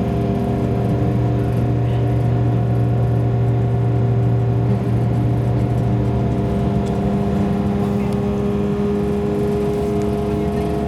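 Class 172 diesel multiple unit under way, heard from inside the carriage: a steady diesel engine and drivetrain drone with rumble. The engine note changes about two thirds of the way in.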